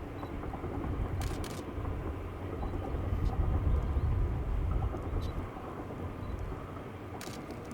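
A KORAIL 7600-series (GE PowerHaul) diesel-electric locomotive rumbles deeply as the train passes, loudest about three to four seconds in and then fading. A few sharp clicks come in pairs, about a second in and again near the end.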